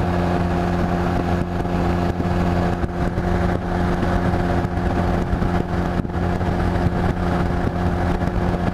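Honda Rebel 250's air-cooled parallel-twin engine running at a steady cruising speed, heard from on the motorcycle, with road noise.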